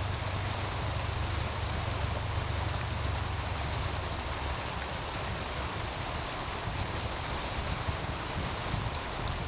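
Meltwater stream rushing steadily beside a crackling wood fire, with frequent sharp pops and snaps from the burning wood. A low rumble underneath drops away a little over halfway through.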